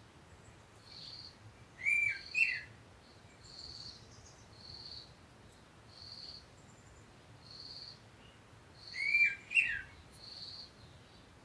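Birds calling: a short high chirp repeats about once a second, and twice a louder two-part call stands out above it.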